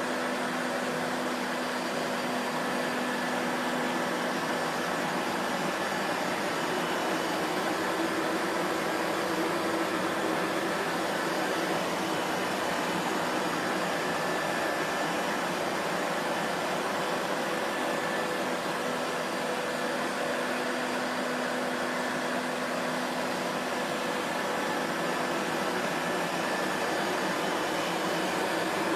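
Vacuum cleaner running continuously at a steady speed: an even rushing noise of the motor and airflow with a faint steady hum, no change in pitch or level.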